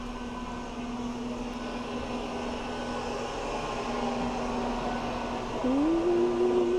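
Steady machinery hum with a motor tone that rises in pitch and grows louder about five and a half seconds in, then holds at the higher pitch.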